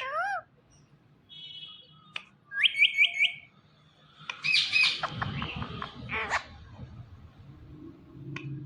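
Green ringneck parrot chirping and calling: a short swooping call at the start, a quick run of four upswept chirps about two and a half seconds in, then a louder, busier stretch of calls from about four to six and a half seconds.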